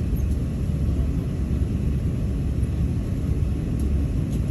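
Steady low rumble of an Airbus A380 heard from inside the passenger cabin: engine and airflow noise at an even level.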